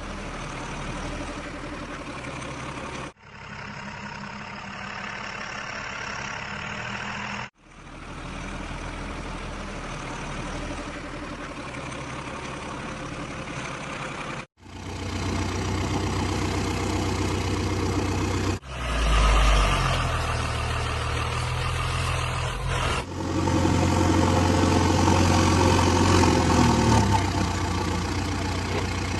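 Heavy diesel engines of a backhoe loader and tipper trucks running at a loading site, in several short clips cut together. The engine sound grows louder and heavier in the second half.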